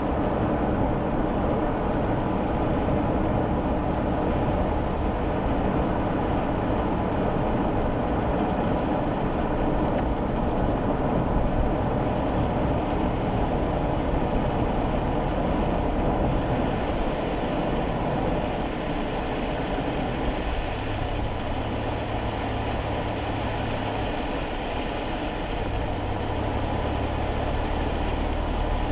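Kei car cabin on wet roads: steady road and tyre noise with the small engine's hum. About two-thirds in, the noise eases slightly and a low steady hum stands out.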